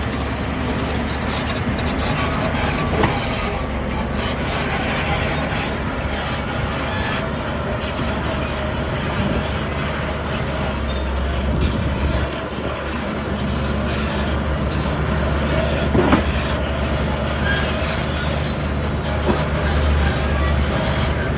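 Heavy diesel construction machinery running steadily with a low rumble, with a few sharp knocks.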